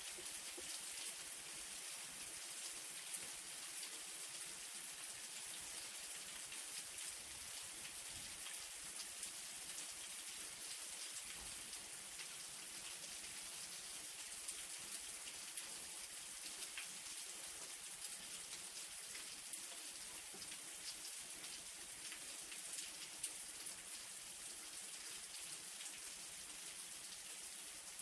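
Light rain falling steadily: a soft even hiss of rainfall with scattered individual drops ticking on a surface.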